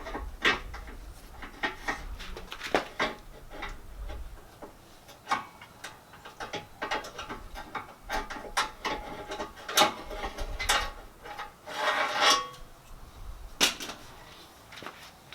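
Metal hand tools and exhaust parts clinking and clacking during hands-on work, with many scattered sharp clicks and a short rattling scrape about three quarters of the way through.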